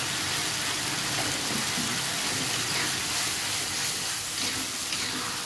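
Ground spice paste sizzling steadily in a wok over a gas flame, stirred with a metal spatula.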